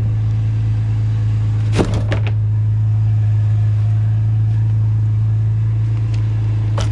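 Truck engine idling steadily, with a short clatter of metal scrap hitting the truck bed about two seconds in and another knock near the end.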